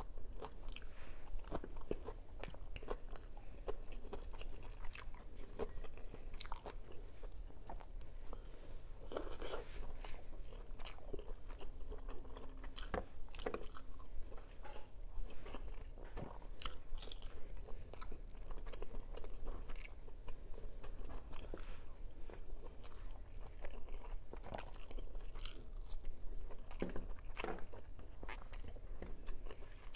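Close-miked mukbang eating sounds: chewing and biting on rice and fried breakfast food, with many short crunches and mouth clicks at an irregular pace, over a steady low hum.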